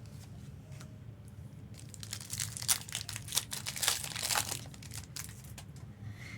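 Foil wrapper of a Pokémon card booster pack crinkling as it is handled, a dense run of crackles loudest from about two seconds in to about four and a half seconds.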